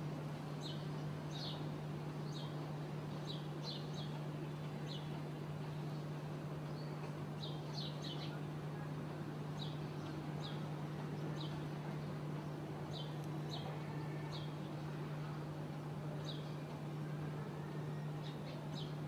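Small birds chirping in short, high, irregular notes, over a steady low hum.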